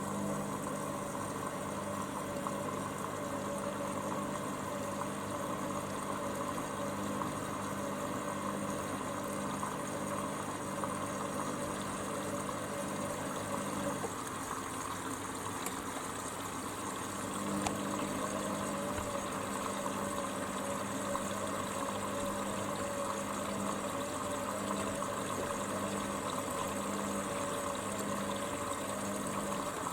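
Hoover Dynamic Next washer-dryer at the start of its wash cycle, water running into the machine with a steady hum. The hum stops about halfway through and comes back a few seconds later while the rushing water carries on.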